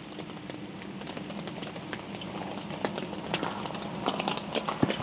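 Rain falling on the tent's fabric, a steady hiss dotted with many small irregular ticks of drops, over a faint steady low hum.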